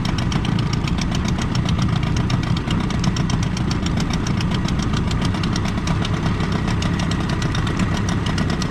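Small boat's motor running steadily with an even, fast firing rhythm.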